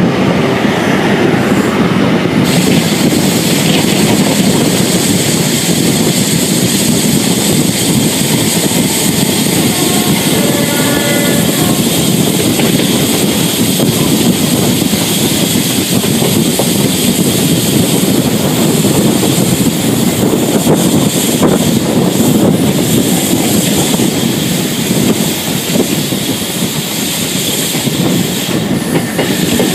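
Cross Country High Speed Train heard from an open carriage window: steady rumble and clatter of wheels on rail with rushing air. About ten seconds in a short, high wheel squeal sounds, and later there are a few sharper knocks as the wheels cross joints and pointwork.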